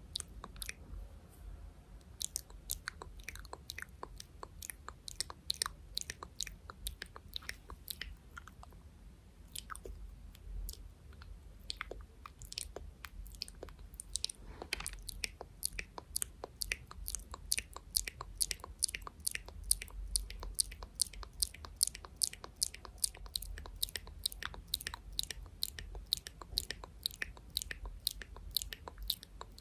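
Close-miked ASMR hand sounds: a run of short, crisp clicks and snaps of the fingers and hands. They come irregularly at first, then from about halfway become quicker and more even, about three to four a second.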